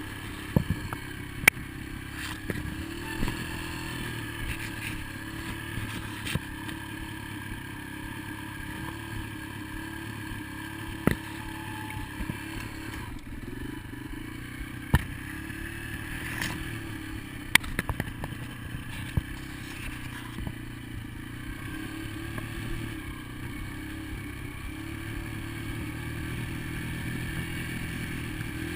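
Dirt bike engine running steadily, with a few sharp clicks and knocks scattered through.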